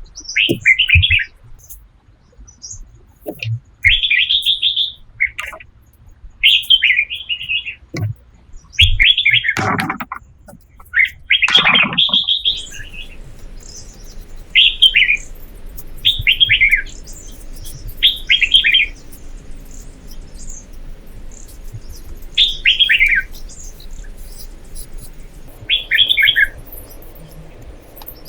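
A bird calling over and over in short chirping phrases, one every one to three seconds. Two louder, deeper sounds break in around the middle, and a faint steady hiss comes in after them.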